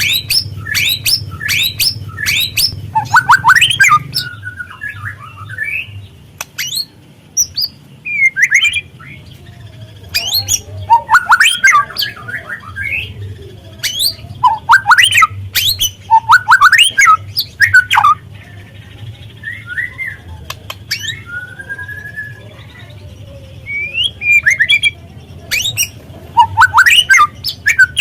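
Juvenile white-rumped shama calling in bursts of quick rising chirps and rough chattering notes, with short pauses between the bursts.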